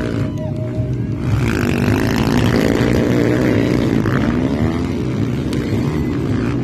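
Honda CRF150 dirt bike's single-cylinder four-stroke engine being ridden, its pitch rising and falling repeatedly as the throttle is worked.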